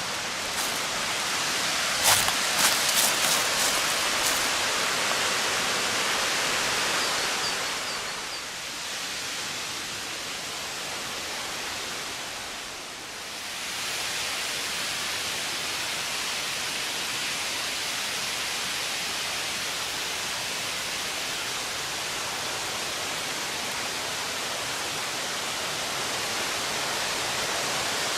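Waterfall pouring steadily, a dense, even rush of water. A few sharp clicks in the first few seconds, and the rush dips briefly about halfway through.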